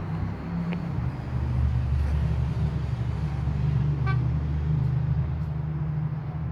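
Low, steady engine rumble of road traffic below the balcony, growing louder after about a second. A brief higher tone, like a short horn toot, sounds about four seconds in.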